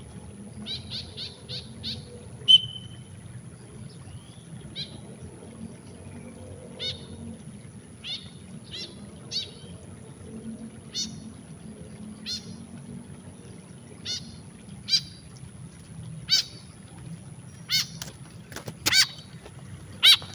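White-breasted woodswallow giving repeated short calls: a quick run of about five a second in, then single calls about once a second, louder near the end. A steady low rumble lies underneath.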